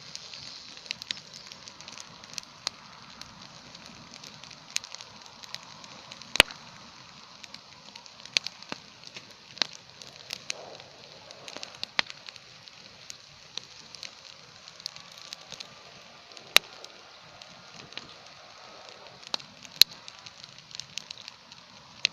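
Campfire burning with a steady hiss and irregular sharp crackles and pops, a few of them much louder than the rest.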